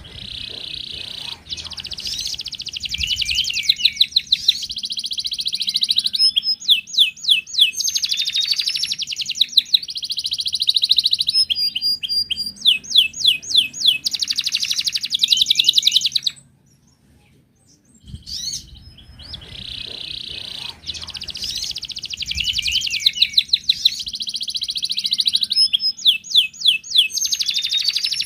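Wild canary singing long, high-pitched song phrases of fast trills and quickly repeated sweeping notes. The song breaks off for about two seconds a little past the middle, then starts again.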